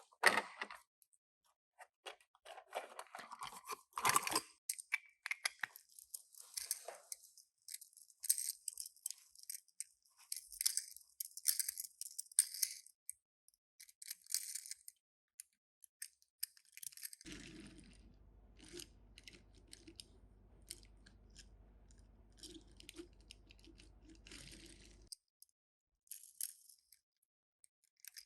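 Toy packaging being opened and handled: irregular crinkling, crackling and tearing of the small box and its plastic wrapping. A low steady hum joins in for several seconds in the second half.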